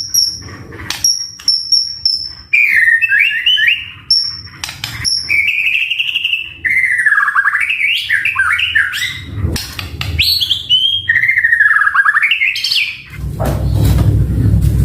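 White-rumped shama singing: a few short, high whistled notes repeated at first, then long, varied warbling phrases that slide up and down in pitch, broken by sharp clicking notes. About two seconds before the end a low rumbling noise comes in under the song.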